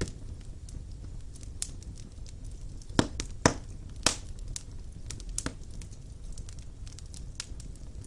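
Wood fire burning in a fireplace: a steady low rumble of flames with frequent sharp crackles and snaps, three louder pops about three to four seconds in.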